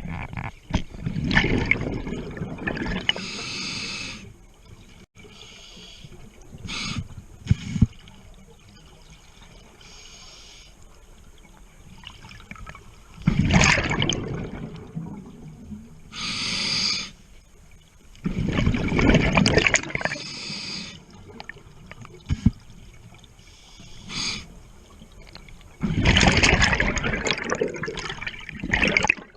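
Scuba diver breathing through a regulator underwater: loud bubbling exhalations a few seconds long, repeating every several seconds, with a shorter hiss of inhalation between them.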